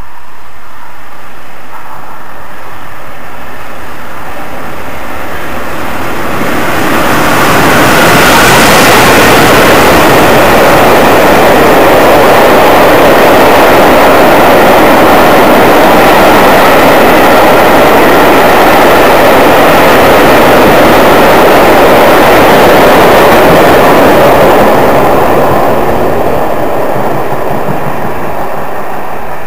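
A locomotive-hauled passenger train runs through the station at speed. The sound swells from about six seconds in as the locomotive comes past, stays loud with the steady running noise of the coaches going by for about fifteen seconds, then fades as the train draws away.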